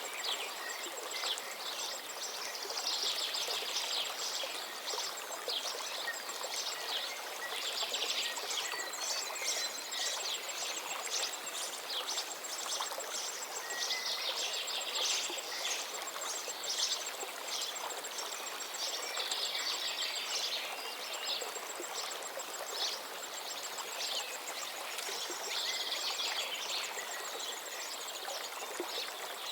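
Water of a small stream flowing steadily, with birds chirping in quick trills that come in bursts every few seconds.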